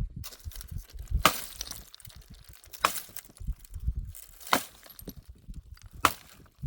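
Dry firewood being broken up: four sharp cracks of wood, about a second and a half apart, with low thumps and rustling between them.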